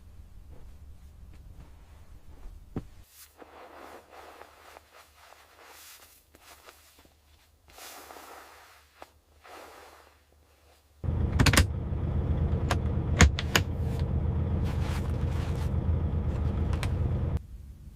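Soft rustling and handling noises, then, about two-thirds in, a much louder steady low rumble with a few sharp clicks that cuts off suddenly near the end.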